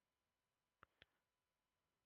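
Near silence, broken by two faint, short clicks close together a little under a second in.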